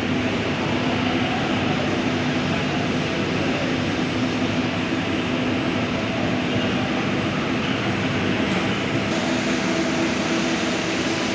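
Halton exhaust hood running: a steady rush of fan and airflow noise with a low, even hum.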